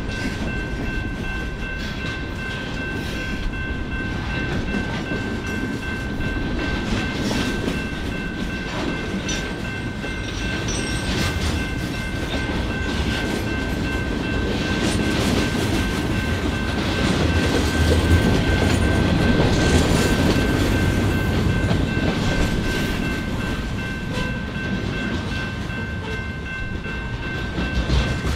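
Train cars rolling past on the rails, wheels clicking over the rail joints in a steady rumble that swells to its loudest past the middle.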